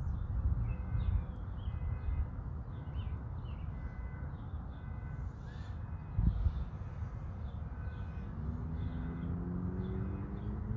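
Birds calling repeatedly over a steady low rumble of outdoor noise, with a single thump about six seconds in. From about eight seconds a pitched hum rises slowly in pitch.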